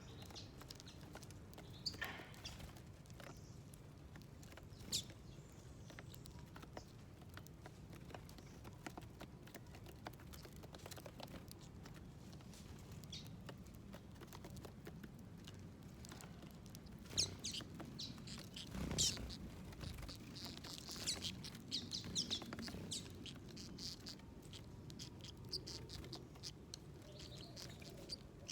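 Small birds at a seed feeder: scattered pecking and ticking clicks with occasional short chirps, a few louder knocks and a burst of activity past the middle.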